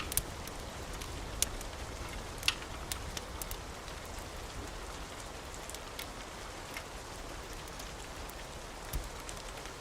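Wood fire burning in a fireplace: a steady low hiss with irregular sharp crackles and pops, the loudest about a second and a half and two and a half seconds in.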